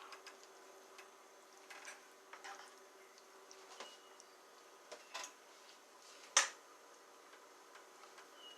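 Scattered light clicks and taps from kitchen utensils and cookware being handled, with one sharper click about six and a half seconds in.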